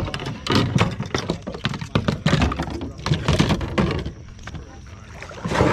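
Irregular knocks, taps and rustles of a fish and gear being handled aboard a kayak, over a steady low hum, with a louder noisy burst near the end.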